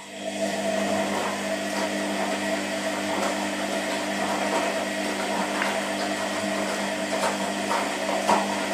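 Washing machine running: it starts suddenly into a steady motor hum and whir, with scattered clicks and knocks throughout.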